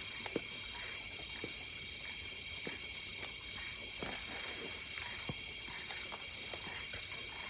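Steady chorus of crickets and other night insects, with a few soft scattered clicks and taps.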